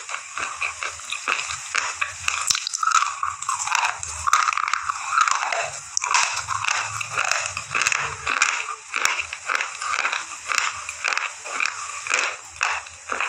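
A thick, dry slate pencil being bitten and chewed: a dense run of crunches, several a second, as the chalky stick breaks and is ground between the teeth.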